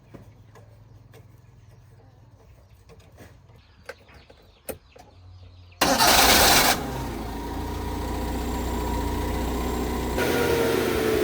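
Truck engine starting: a few light clicks, then about halfway through a sudden loud burst as it fires. It settles into steady running, and the revs pick up a little near the end.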